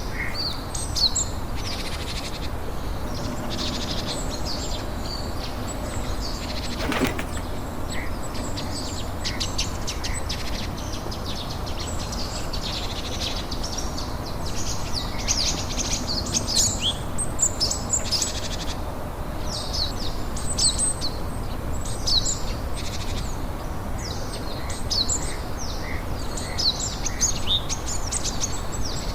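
Small birds chirping continuously, many short high-pitched chirps in quick succession, over a steady low background rumble.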